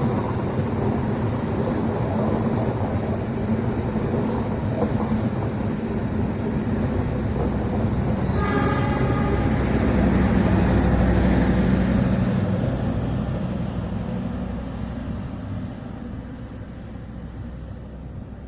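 Train hauled by a CC206 diesel-electric locomotive running past with a steady rumble, a short horn blast sounding about eight and a half seconds in. It is loudest a little after the horn, then fades as the train moves away.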